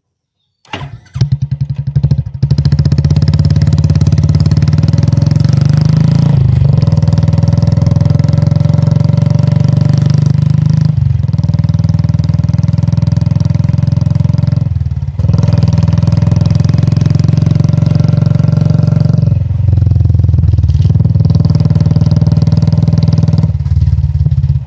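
Royal Enfield Classic 350's single-cylinder engine running loud, starting abruptly about a second in, with brief dips in the engine note every four seconds or so.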